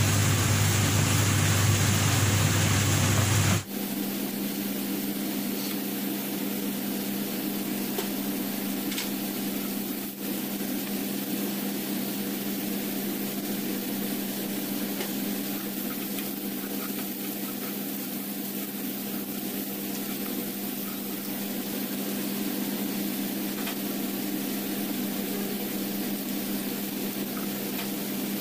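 Onions frying in a pan on a gas hob, a steady hiss, over a constant low machine hum. The sound changes abruptly a few seconds in and becomes quieter and steadier.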